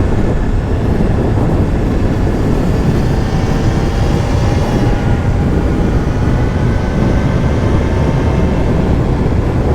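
Wind rushing over the microphone on a BMW S1000RR at riding speed, with the bike's inline-four engine droning steadily and faintly underneath.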